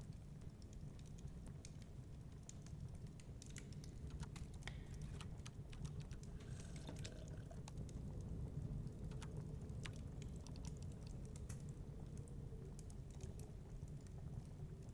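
Wood fire crackling with irregular sharp pops, over a steady low rumble of storm wind.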